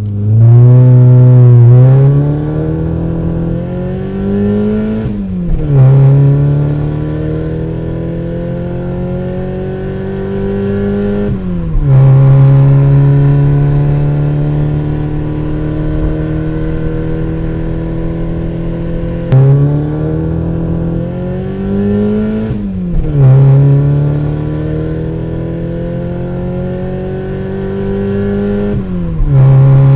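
A vehicle engine accelerating hard. Its pitch climbs for several seconds and then drops sharply, as at a gear change, about five times in a row.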